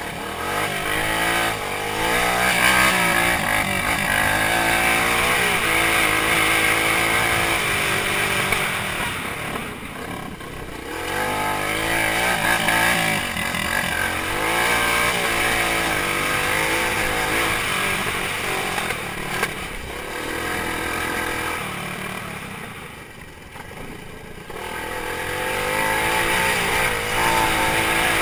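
Motorcycle engine revving up and down as it is ridden, its pitch rising and falling repeatedly. The sound fades about a third of the way in and again more deeply near the end, then comes back loud.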